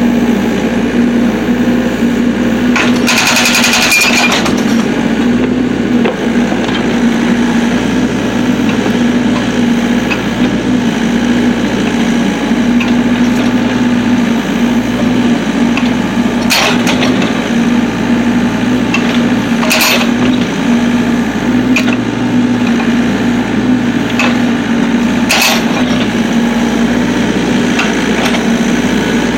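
Excavator engine running steadily with a loud, even drone, while its hydraulic breaker strikes firewood logs: a short rattling burst of blows about three seconds in and a few single sharp cracks later on.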